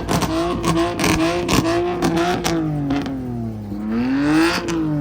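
Car engine revving hard, its pitch bobbing rapidly up and down with sharp cracks. It then dips, climbs to a peak near the end, and drops away.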